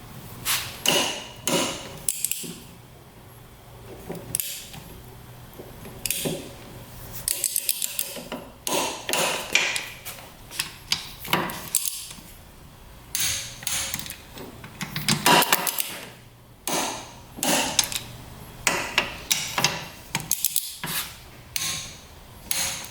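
Torque wrench ratcheting in short runs of rapid clicks, with metal clinks of the socket on the bolts, as the cylinder head bolts and Allen bolts are tightened to spec.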